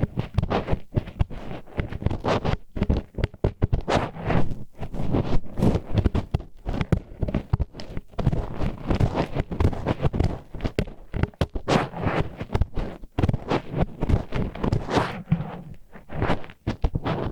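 Disposable wooden chopsticks scraping and rubbing against the wall of an ear in ASMR ear cleaning: an irregular, unbroken run of rough grinding strokes, several a second, with a heavy low rumble under them.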